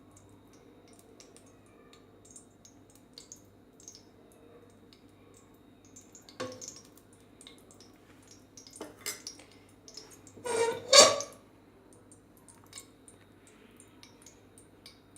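Kitchen pots and utensils clinking and knocking as the oil is put into the cooking vessel, with one loud metal clatter about ten and a half seconds in.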